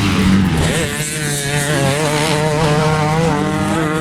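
Motocross dirt bike engines running hard on the track; one bike's pitch climbs about a second in, then wavers up and down as the rider works the throttle, over a steady low drone of other bikes.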